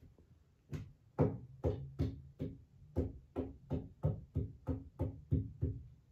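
A quick, even series of about a dozen knocks, roughly two and a half a second, starting under a second in and stopping shortly before the end.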